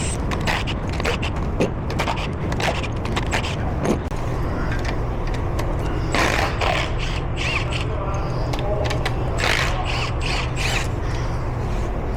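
Metal clicks, clinks and scrapes of valvetrain parts being worked loose and lifted off a 7.3 L gas V8 engine during teardown, over a steady low hum.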